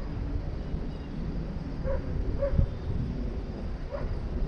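Strong wind buffeting the microphone with a steady low rumble, and a dog giving a few short barks, about two seconds in, again half a second later and near the end.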